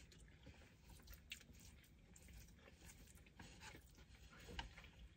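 Faint chewing of Mexican takeout food, with a few soft, scattered mouth clicks.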